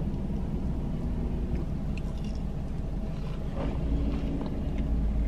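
Biting into and chewing a fried mozzarella stick, with small crackles, over the steady low rumble of a car engine idling, heard inside the cabin.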